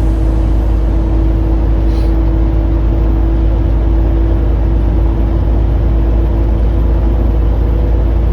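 Semi-truck cab interior while cruising on the interstate: a steady, loud low drone of engine and road noise with a constant hum over it.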